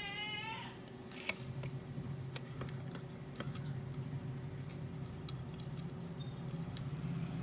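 A short, wavering, high-pitched animal call at the start, over a steady low hum. Light clicks and taps are scattered throughout.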